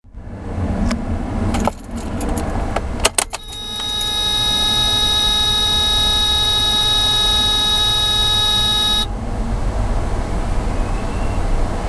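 Keys rattling and clicking, then a steady high buzzing tone from a car's warning buzzer for about five seconds that cuts off suddenly, over a constant low rumble.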